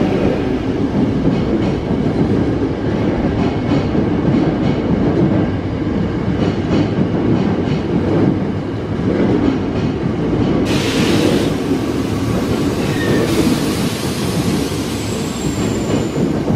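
Kyoto Municipal Subway Karasuma Line train running out along the station platform, its wheels rumbling with a clickety-clack over the rail joints. A hiss joins about two-thirds of the way through as the last cars pass.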